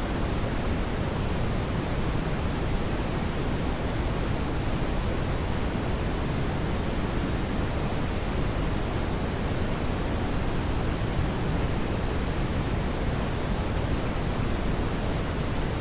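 Steady brown noise: an even, unchanging rumbling hiss weighted toward the low end.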